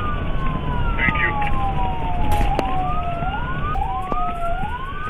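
Emergency-vehicle sirens wailing over a two-way radio channel: two sirens overlap, each slowly rising and falling in pitch, over a low rumble of vehicle noise.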